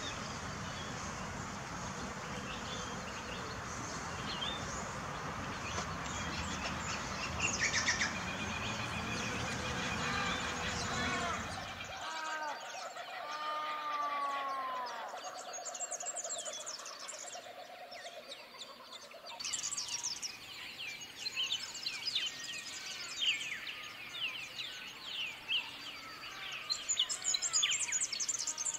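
Birds chirping and singing over a steady background hiss. About twelve seconds in the hiss drops away, leaving clearer arching whistled notes, and from about twenty seconds in come many quick high chirps.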